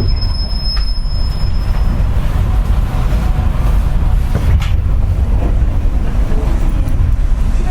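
Running noise heard inside a JR West 201 series electric car (chopper-controlled), a heavy steady rumble. A thin high whine, the kind the uploader puts down to electrolytic corrosion of the bearings, fades out within the first couple of seconds, and a single sharp knock comes about halfway through.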